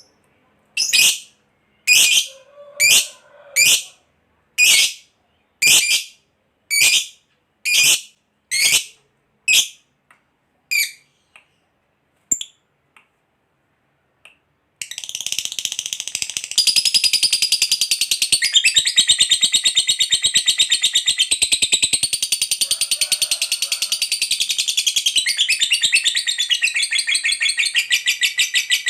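Lovebird calling: first a series of sharp, shrill single calls about one a second. Then, after a short pause, a long unbroken rapid chattering trill, the 'ngekek panjang' that keepers prize as the sign of a bird in full song.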